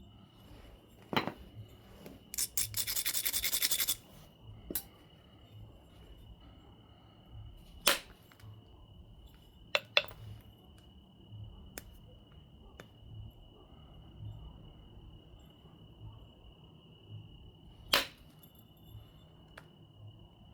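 Obsidian biface being knapped: several sharp clicks of flakes snapping off the glassy stone, spread out with pauses between them. About two seconds in comes a second and a half of rapid back-and-forth scraping, an abrader being rubbed along the edge.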